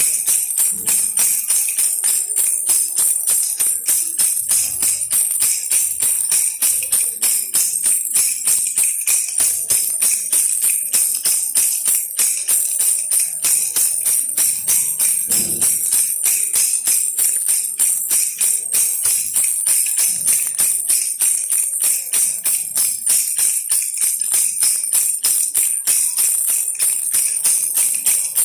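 Baby rattle toy shaken steadily: a bright rattle of many small strikes, pulsing in a quick, even rhythm.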